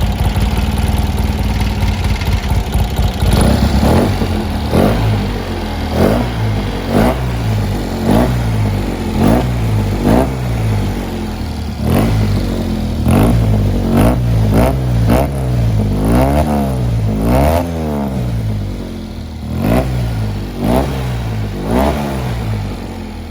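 Fiat 126 air-cooled two-cylinder engine, a newly built 700 cc unit, idling for a few seconds and then revved in short blips about once a second, each one rising and falling in pitch.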